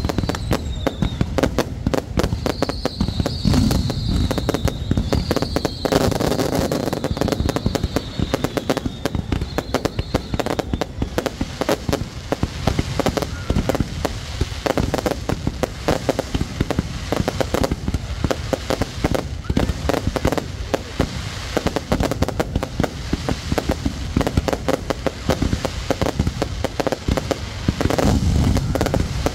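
Aerial fireworks display: a rapid, unbroken run of bangs and crackles, with high wavering whistles over the first ten seconds or so.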